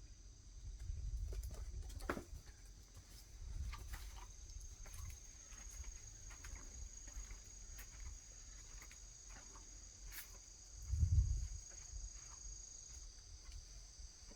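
Crickets chirring steadily, with scattered light scratches and taps and a brief low rumble about eleven seconds in.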